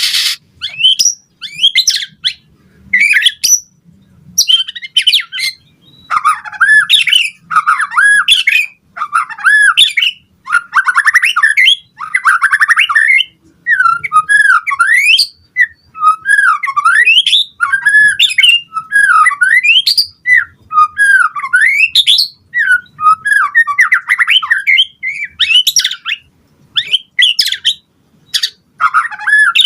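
White-rumped shama singing loudly in long, fast, varied phrases. The phrases mix whistled rising and falling sweeps with harsh chattering notes and come in bursts with short breaks between them.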